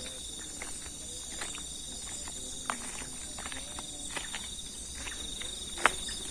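Insects chirring steadily in a high, pulsing drone, with scattered irregular sharp ticks and clicks; the loudest click comes near the end.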